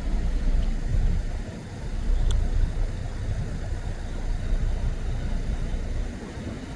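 Metra commuter train running past the platform with a low, fluctuating rumble.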